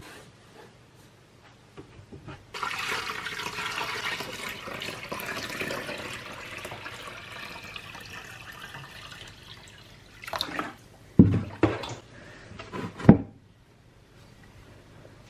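Collected rainwater being poured into a container for a first filtering, a splashing pour starting about two and a half seconds in and slowly tapering off. A few hard knocks near the end.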